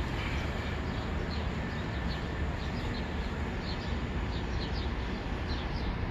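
Birds chirping, short high calls every second or so, over a steady low rumble.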